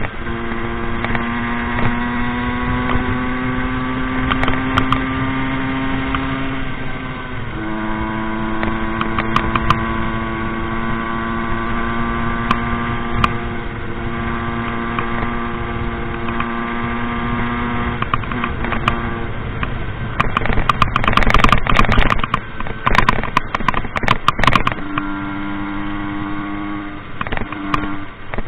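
Rieju MRT 50 two-stroke engine running under load, its note climbing slowly, then dropping suddenly about seven seconds in as it shifts up, and holding steady. Near the end the note breaks up into rough noise with a rattle of knocks for several seconds before a steady, lower engine note returns.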